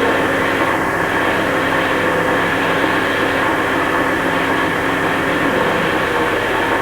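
Experimental noise music: a dense, steady wall of hiss with many held droning tones layered beneath it, unchanging throughout.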